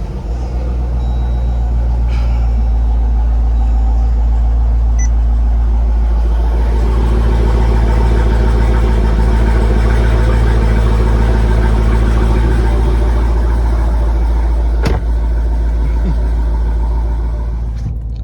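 2022 Jeep Grand Cherokee Trackhawk's supercharged 6.2-litre Hemi V8 idling steadily through a Roar Racing aftermarket exhaust, with a deep, even rumble.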